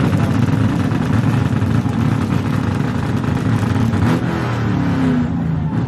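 Car engine revving hard and held at high revs, its pitch wavering and gliding again about four seconds in.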